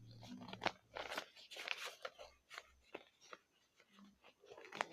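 A sheet of paper rustling and crinkling as it is folded and creased, in short irregular bursts with a few sharp clicks.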